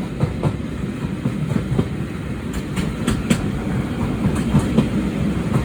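Heritage passenger train running along the line, heard from on board: a steady low rumble of wheels on rails with irregular clicks and knocks as the wheels pass over rail joints.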